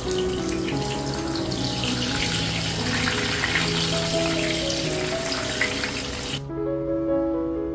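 Water running from a tap into a sink, shut off abruptly about six seconds in, over soft background piano music.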